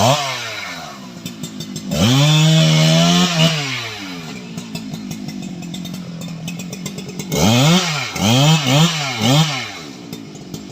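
Stihl MS 881 two-stroke chainsaw idling and being revved in bursts: a rev right at the start that falls back, a longer held rev about two seconds in, then steady idle, then four quick throttle blips near the end.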